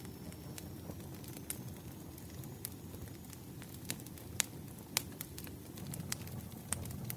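Crackling wood fire: irregular sharp pops and snaps from burning logs over a steady low rumble, with the loudest pops a little past the middle.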